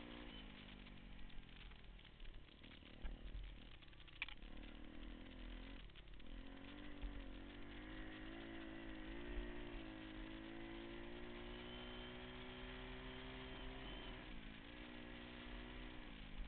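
Pit bike's single-cylinder engine running as it is ridden. The revs fall off about a second in, pick up again around six seconds in, hold fairly steady, then ease down near the end.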